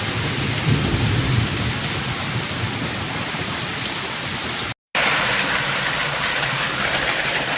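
Heavy rain pouring down in a steady hiss. About five seconds in it cuts off abruptly and another recording of heavy rain follows, hissier and brighter.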